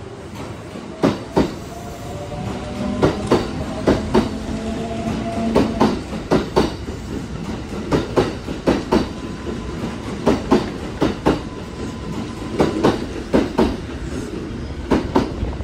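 Kintetsu 5800 series six-car electric train pulling out of the platform past the listener. Its wheels click over the rail joints in evenly spaced pairs as each bogie passes, over a steady rumble, with a faint rising motor whine for a few seconds.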